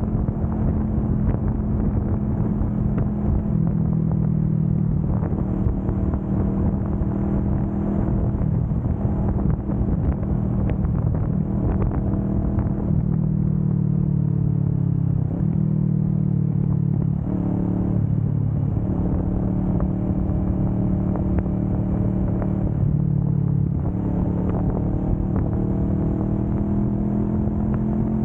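Kawasaki Vulcan S 650's parallel-twin engine running steadily at road speed, its pitch rising and falling gently with the throttle, with a short dip and recovery about halfway through.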